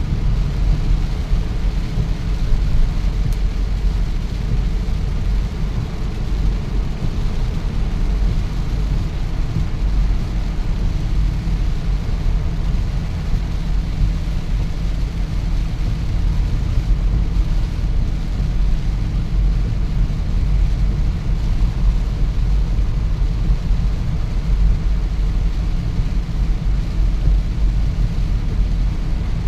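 Steady rain with a loud, constant low rumble underneath and no distinct events.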